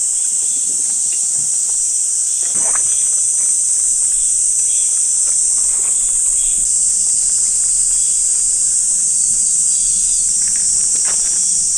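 Steady, high-pitched chorus of insects in the forest, with a few faint ticks scattered through it.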